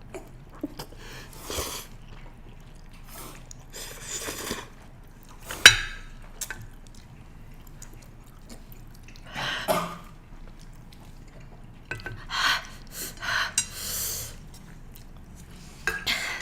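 A person eating spicy noodles: intermittent short slurps, sniffs and sharp breaths, with one sharp click about six seconds in.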